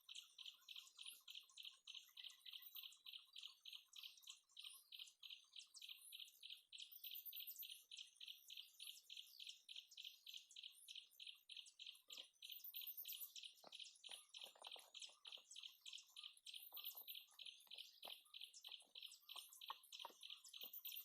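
Faint, steady rhythmic chirping from a forest insect, about four pulses a second, with fainter high chirps above it. Scattered short crackles join in about halfway through.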